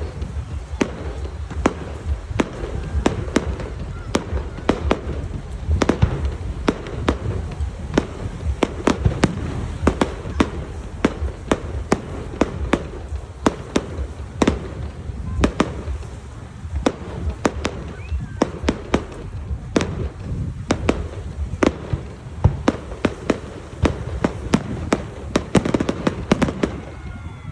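Fireworks display: a rapid, irregular barrage of sharp bangs and crackles, several a second, over a continuous low rumble of shell bursts.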